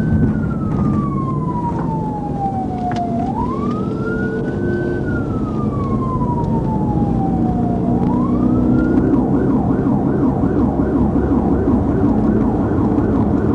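Police car siren wailing in slow rising-and-falling sweeps, then switching about nine seconds in to a fast yelp, over the patrol car's engine and road noise.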